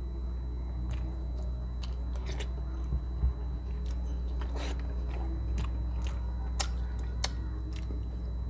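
Close-miked chewing of paksiw na bangus (milkfish stewed in vinegar), eaten by hand: wet mouth smacks and short crunchy clicks at irregular intervals, with a single low thump about three seconds in.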